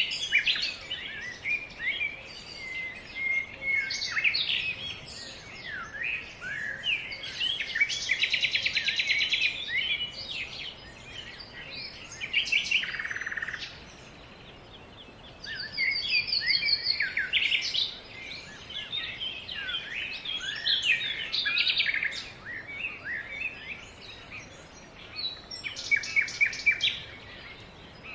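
Several songbirds singing at once: overlapping chirps and whistles, with a few fast trills of rapidly repeated notes.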